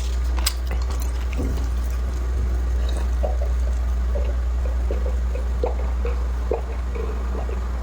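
A person chewing food close to the microphone, with soft wet mouth sounds every so often. A steady low hum runs under it.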